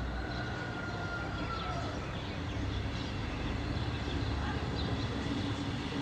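Neighbourhood outdoor ambience: a steady low rumble of distant traffic, with scattered faint high chirps and a faint falling tone during the first two seconds.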